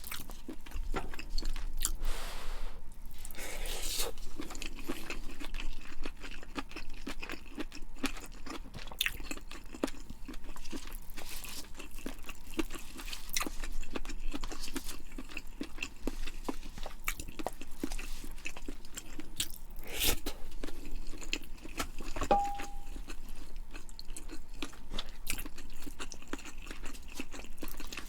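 Close-miked eating sounds: a person chewing food with a continual run of wet crunches and small clicks. A short ringing ping sounds once, about three-quarters of the way through.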